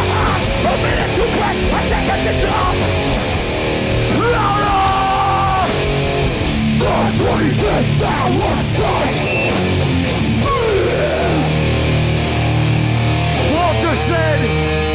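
A hardcore punk band playing live and loud: distorted electric guitars, bass and drums, with no vocals.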